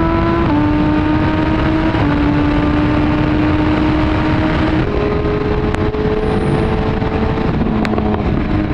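Motorcycle engine running at a steady highway cruise under heavy wind rush. The engine note holds nearly level, dips slightly a couple of times, rises about halfway through and drops again near the end.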